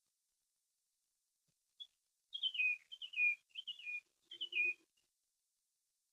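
A songbird singing, faint: a short run of about five quick notes, each falling in pitch, starting a couple of seconds in.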